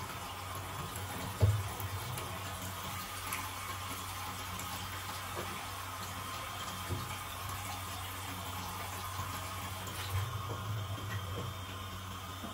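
Water running steadily, likely from a tap, with one sharp knock about a second and a half in and a few lighter clatters.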